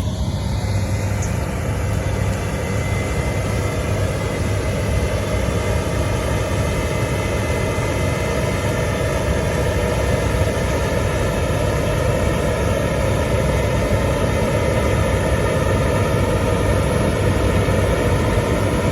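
New Holland combine harvester running steadily while combining wheat: a constant loud mechanical drone with a low engine hum.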